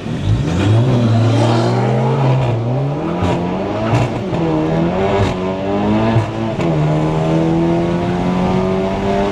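Turbocharged VW GLI launching off the line at a drag strip and accelerating hard. The engine note climbs, drops sharply at each of three upshifts, then climbs again.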